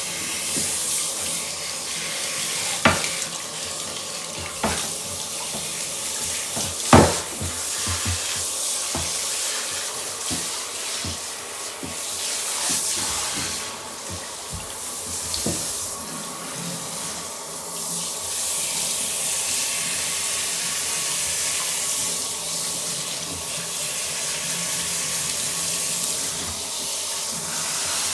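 Water running steadily from a tap while a cat is washed, with a few sharp knocks in the first seven seconds, the loudest about seven seconds in.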